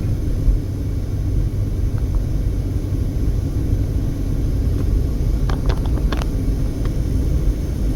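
Steady low rumble of a car on the move, road and engine noise heard from inside the cabin, with a few faint clicks about five and a half to six seconds in.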